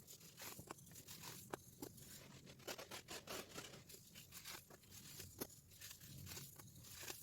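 Compacted baking soda crumbling and crushing, a soft, continuous crackle dotted with sharp little snaps, the thickest crackling in the middle and the sharpest snap a little past halfway. The crushing plays in reverse.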